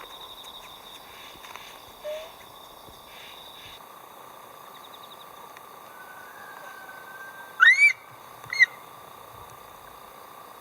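Two short, loud bird calls about a second apart, each rising and falling in pitch, over a steady background of insects trilling.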